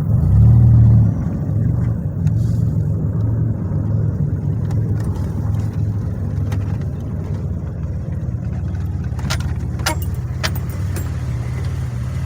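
2007 Pontiac Grand Prix GT's engine running with road noise as the car is driven gently. The engine note swells briefly near the start, then holds steady, and a few sharp clicks come near the end.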